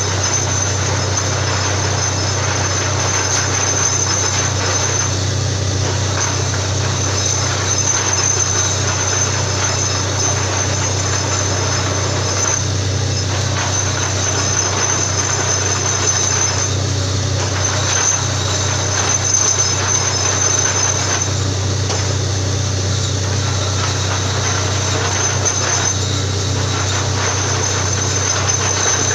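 Borewell drilling rig running steadily: a loud, continuous machine din with a deep hum and a thin, steady high-pitched whine.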